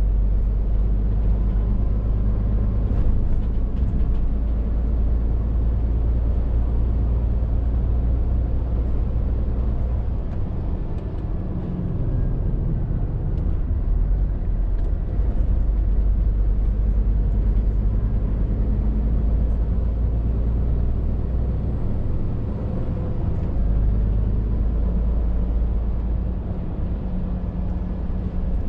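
Scania R450 lorry's 13-litre straight-six diesel engine running under way, with road noise. The low drone drops away briefly twice, about a third of the way through and again about three quarters through.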